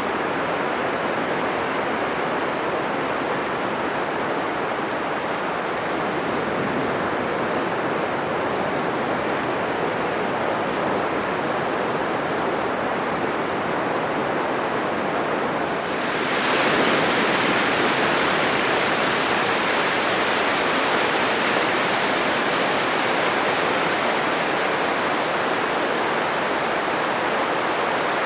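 Atlantic surf on a sandy beach: a steady, rushing wash of breaking waves. About halfway through the sound turns suddenly brighter and a little louder.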